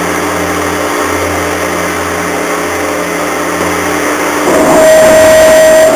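A ship's engine drone, steady and low. About four and a half seconds in, a loud, long, steady horn blast begins from the car ferry Ba-yu as it enters port.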